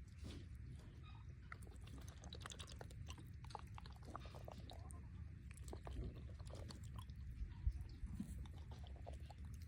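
A turkey drinking water, its beak dipping and clicking in a run of small irregular clicks and sips.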